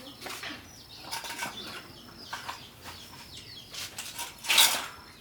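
Small birds chirping in short falling calls, with scattered sharp clicks and one short loud hiss about four and a half seconds in.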